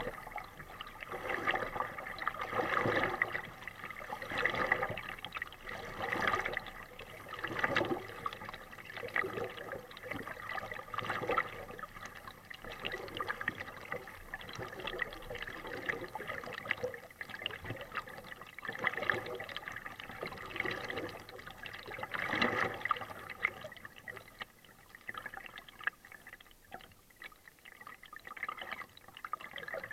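Kayak paddle strokes through water: dipping and pulling, with splashing and dripping from the blade, swelling about every one and a half seconds. The strokes grow softer over the last few seconds.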